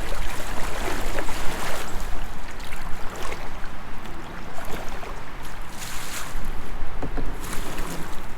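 Rushing creek water and uneven splashing as a kayak runs through rapids, with a low rumble of wind on the microphone.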